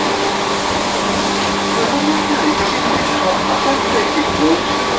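Tobu 1800 series electric train running at speed, heard from the vestibule of a motor car: a steady rush of wheel and rail noise with the whir of the traction motors and gearing underneath.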